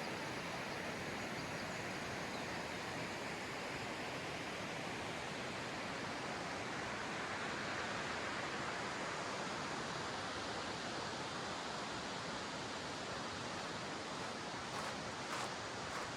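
Steady rushing of a fast river running over stones. A few footsteps on loose river rocks start near the end.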